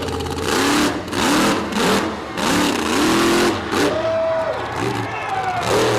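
Monster truck engine revving in repeated bursts, roughly one a second, the pitch climbing and dropping with each stab of the throttle.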